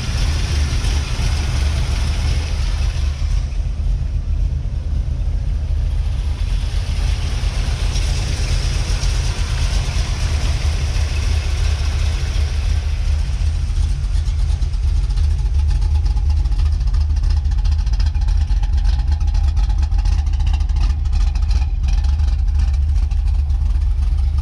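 1977 Chevrolet Corvette C3's 350 cu in (5.7 L) small-block V8 idling steadily, a constant low rumble with no revs.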